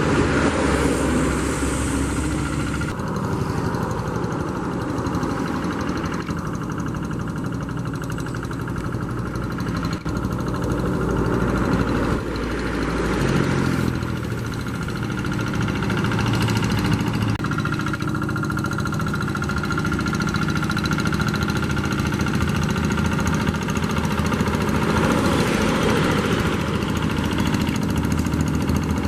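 Rice-field tractor engine running steadily, its speed shifting up and down several times.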